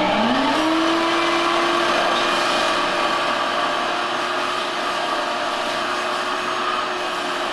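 Vacuum cleaner running steadily on a new floor, its motor still spinning up in the first half second and then holding a steady whine.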